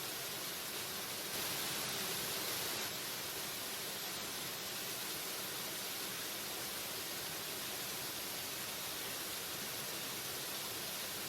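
Waterfall: a steady rush of falling water, briefly a little louder about a second and a half in.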